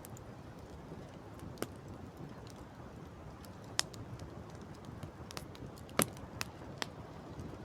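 Campfire crackling: irregular sharp pops and snaps of burning wood, the loudest about six seconds in, over a steady low background rush.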